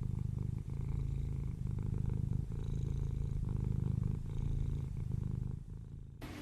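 Cat purring close to the microphone, a steady low rumble with short breaks as it breathes in and out, until it stops about six seconds in.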